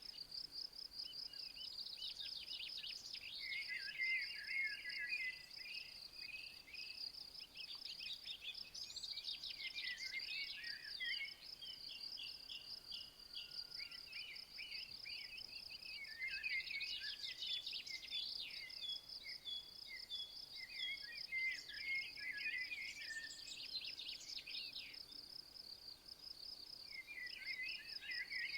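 A steady, high, pulsing insect trill runs on without a break, while songbirds sing in repeated bouts of quick, varied chirping phrases every few seconds.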